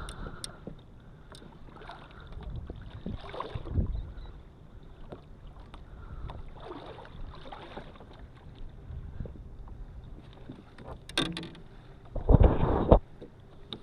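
Knocks, scuffs and bumps on a fishing kayak as a just-landed redfish and tackle are handled, with a louder rough scuffing thump near the end.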